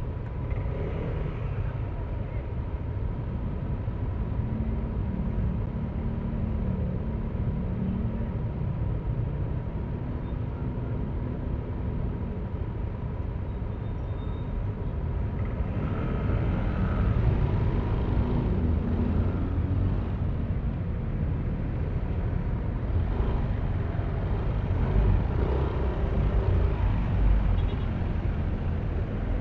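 Yamaha Aerox V3 scooter's single-cylinder engine running under way, with road and wind rumble, growing louder about halfway through.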